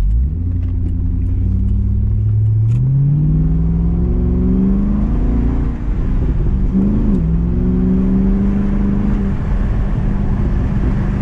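Chevrolet C6 Corvette V8 accelerating hard in second gear, heard from inside the cabin. The engine note climbs steadily for about six seconds, breaks briefly, then settles to a steady note.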